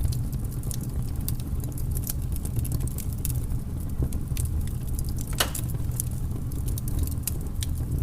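Wood fire crackling: a steady low rumble with irregular sharp pops and snaps, one louder snap about five and a half seconds in.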